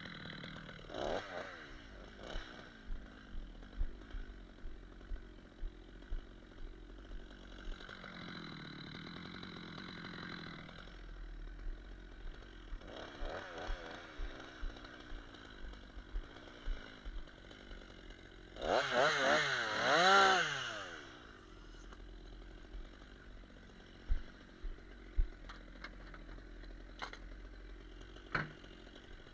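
Chainsaw idling, revved briefly a few times, with the longest and loudest rev about two-thirds of the way through, rising then falling in pitch. Short clicks and knocks sound between the revs.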